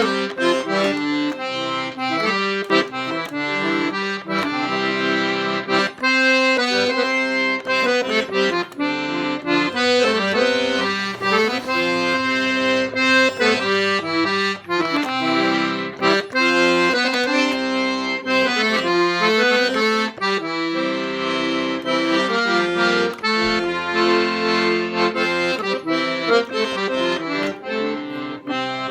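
Sanfona (accordion) playing a lively melody over chords, the notes changing quickly without pause.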